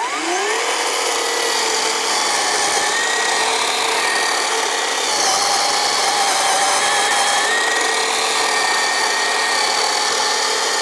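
Black+Decker GKC3630L20 36 V cordless electric chainsaw spinning up with a rising whine, then cutting through a log, its motor pitch wavering slightly under load.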